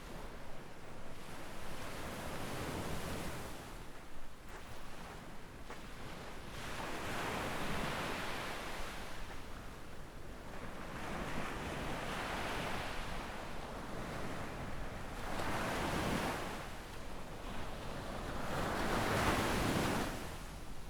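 Small waves breaking and washing up on a sandy beach, swelling and fading about every four seconds. A low rumble of wind on the microphone lies underneath.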